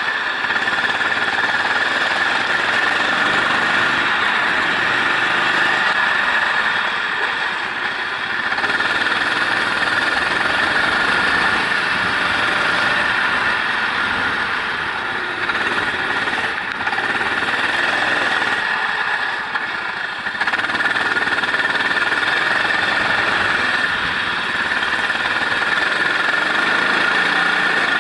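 Racing engine heard onboard, running hard at high revs through a lap of a wet circuit. It eases off briefly twice, about a third of the way in and again about two-thirds in, as if lifting for corners.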